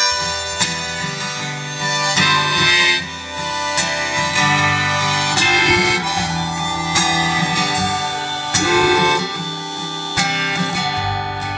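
Harmonica played over strummed acoustic guitar: an instrumental break between sung verses of a folk-rock song.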